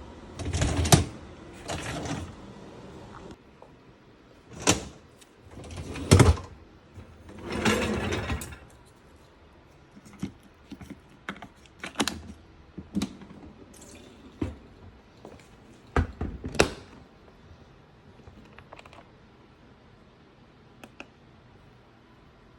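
Dishes and kitchenware being handled while loading or unloading a dishwasher. Several rattling, sliding bursts come in the first eight seconds, then a run of separate light clinks and clicks, which thin out to a few faint ticks in the last few seconds.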